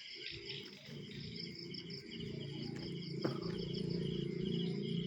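Crickets chirping steadily, short high pulsed chirps repeating a few times a second. A low steady hum rises underneath after about two seconds.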